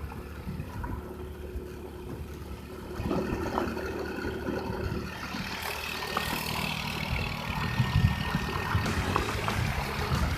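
An engine idling steadily, a low even hum that gets a little louder about three seconds in.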